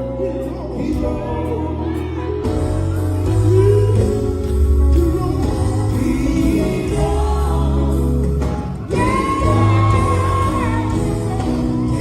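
Gospel group singing live over band accompaniment with heavy bass, voices holding long notes.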